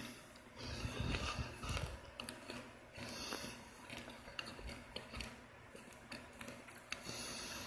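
Biting and chewing a hardened chunk of microwaved Argo cornstarch: a run of crisp cracks and crunches.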